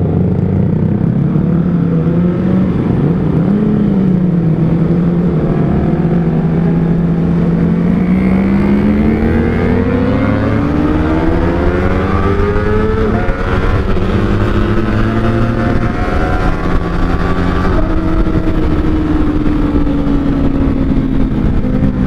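Kawasaki ZX-25R's 250 cc inline-four running through an R9 Zeta aftermarket exhaust on the move. The engine note climbs steadily from about a third of the way in to around the middle, then drops back and holds with small rises and falls.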